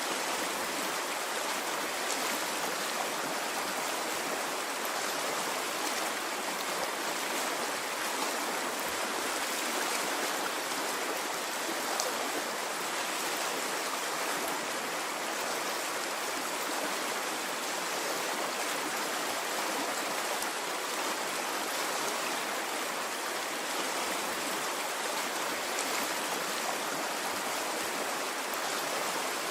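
A stream of running water, a steady even rush with faint splashes and ticks scattered through it.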